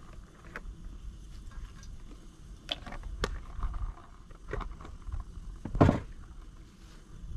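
Light clicks and knocks of cooking gear being handled at a camp stove, with one louder knock about six seconds in, over a low rumble.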